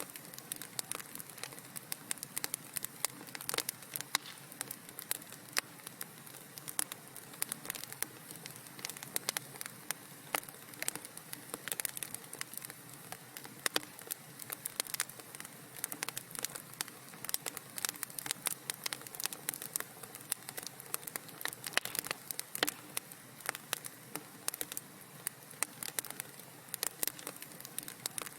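Fire crackling in a fireplace: dense, irregular pops and snaps over a soft, steady hiss.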